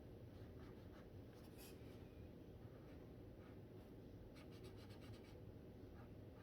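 Faint scratching of a dual brush pen's tip on paper: short colouring strokes, with a quick run of several strokes about four seconds in, over a steady low room hum.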